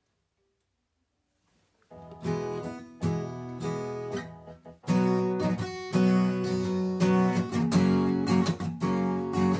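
Acoustic guitar starting about two seconds in with separate picked notes, then fuller, louder strummed chords from about five seconds in.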